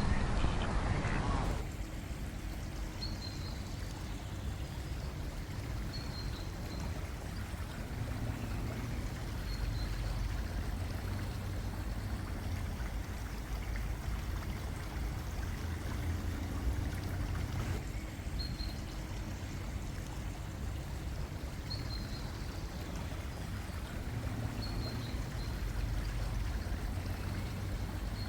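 Freshwater spring water flowing and trickling steadily, with a short high chirp repeating every few seconds.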